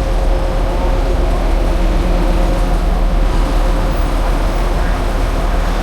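Street traffic noise: a motor vehicle's engine running close by as a steady low rumble with a faint steady hum above it.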